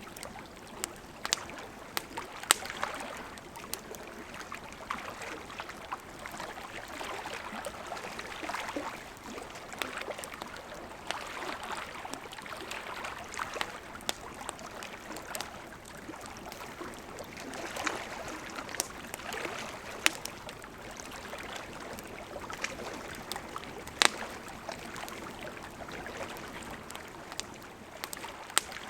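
Campfire crackling with scattered sharp pops over a steady background of a flowing stream; one pop about three-quarters of the way through is the loudest.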